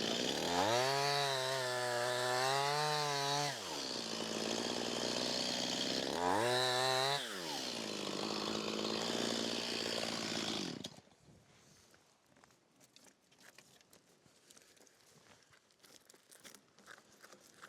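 Chainsaw run at full throttle twice, a longer burst of about three seconds and then a shorter one, dropping to idle between and after. It is shut off about eleven seconds in, leaving near quiet with a few faint ticks.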